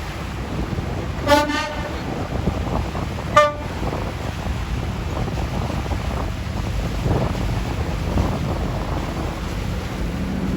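Two short blasts of a boat horn, the first a little longer, about two seconds apart, over a steady low rumble.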